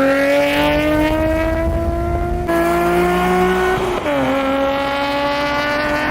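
Nissan 370Z's 3.7-litre V6 held at high revs with tyres squealing under wheelspin. The pitch climbs slowly, drops briefly about four seconds in, then holds.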